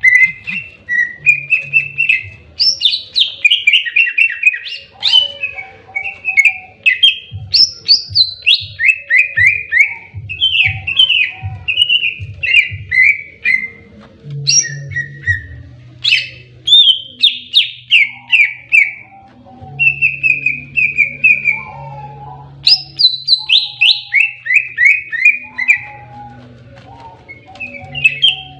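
Cucak ijo (leafbird) singing its aggressive fighting song: loud, continuous phrases built from fast runs of downward-sweeping whistled notes, repeated again and again with only brief pauses.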